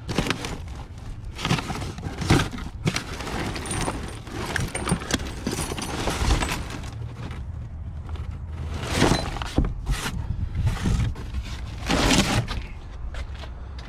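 Rummaging through a box of trash: irregular rustling and crinkling with knocks and thuds as the items are handled, loudest about nine seconds in and again about twelve seconds in.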